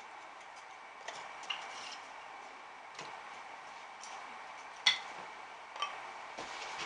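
Scattered light knocks and clicks of firewood being stacked in an open brick fireplace, with one sharper knock about five seconds in.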